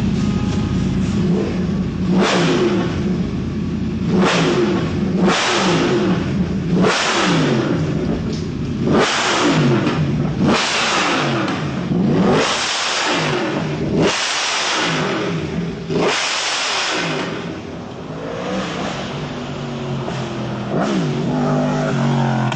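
Superbike engines revving hard, their pitch rising and falling over and over, with a loud surge every one to two seconds, settling into a steadier run in the last few seconds.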